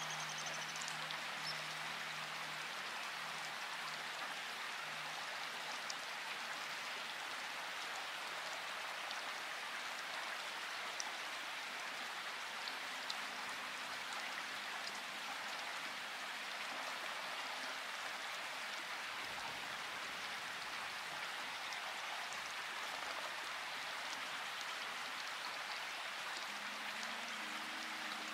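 Steady rain falling, an even hiss with scattered drop ticks. Faint low steady tones come and go beneath it.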